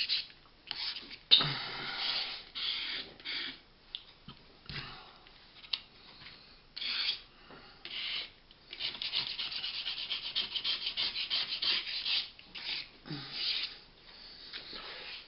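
Repeated rubbing and scraping strokes on a workpiece, in short bouts with a quick run of strokes in the second half, as a spill of still-soft compound is cleaned off; a few light knocks in between.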